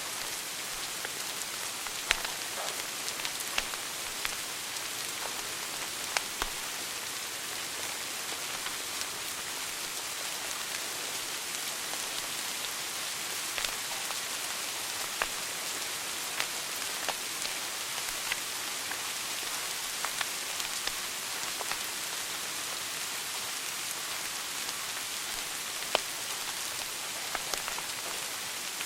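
Wood fire burning in a fireplace: a steady hiss with irregular sharp crackles and pops, a few louder snaps about 2, 6 and 26 seconds in.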